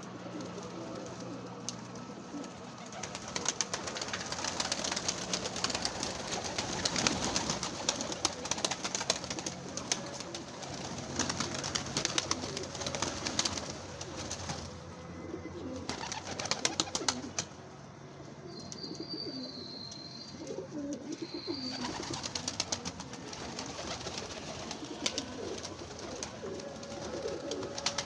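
Domestic pigeons cooing, with many small clicks and scuffles among them.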